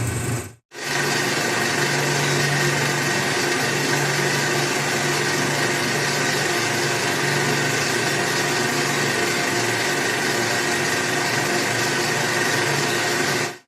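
An engine running steadily, a constant hum under broad hiss, starting abruptly after a brief silence under a second in.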